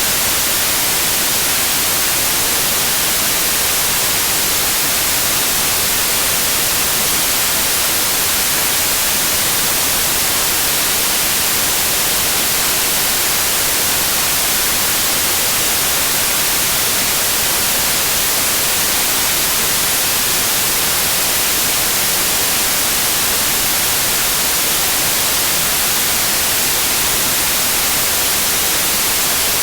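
Steady synthetic white noise: an even, unbroken hiss that is brightest in the high end and does not change in level.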